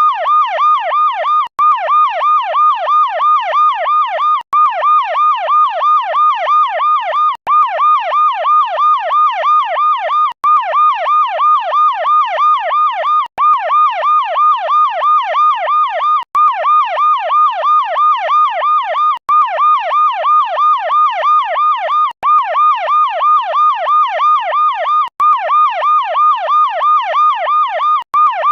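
Electronic toy siren of a Lego police car, a fast yelp rising and falling about four times a second, with a short break roughly every three seconds as the loop starts again.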